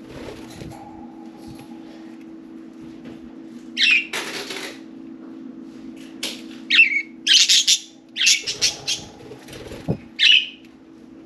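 Pet budgerigars chirping in short calls, with several bursts of quick wing flapping in between.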